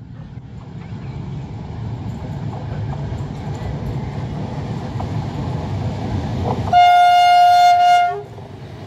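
Romanian class 41 electric locomotive approaching with a passenger train, its low rumble growing steadily louder, then one steady horn blast of about a second and a quarter near the end, the loudest sound.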